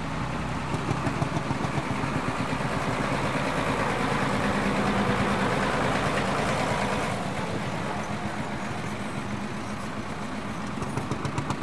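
Marshall tractor's single-cylinder horizontal two-stroke diesel engine running with a steady, heavy beat. It grows louder for a few seconds midway, then eases.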